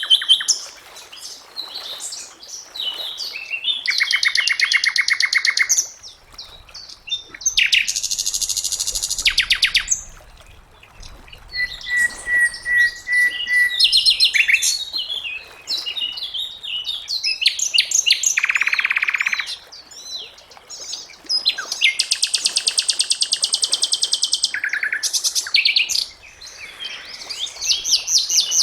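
Sikatan londo singing a varied song. Fast trills and buzzy rattles alternate with strings of short, high repeated notes and a few held whistles, with brief pauses between phrases.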